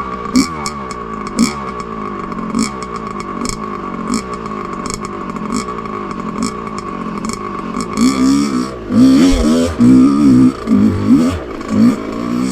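Two-stroke dirt bike engine revving under load on a rocky hill climb, its pitch rising and falling with the throttle, with sharp clattering knocks throughout. About eight seconds in it revs louder and harder for a few seconds.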